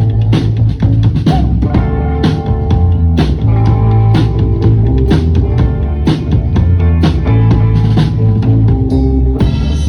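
Rock band playing live: drum kit keeping a steady beat of about two hits a second over bass and guitar.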